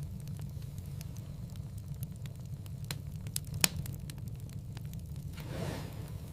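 Wood fire crackling in a fireplace: a steady low rumble of flames under a scatter of sharp snaps and pops, one loud pop a little past halfway.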